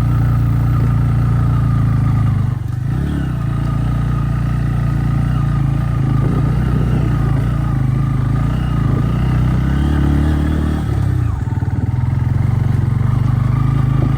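Motorcycle engine running steadily while riding. It dips briefly about two and a half seconds in and shifts pitch around ten to eleven seconds in.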